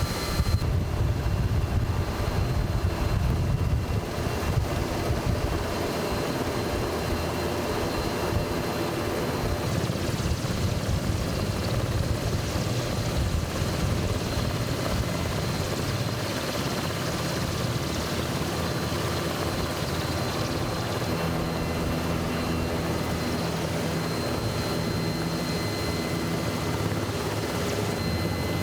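Helicopter running steadily overhead, its rotor and engine noise a continuous rumble that is heaviest in the first five or six seconds and then settles.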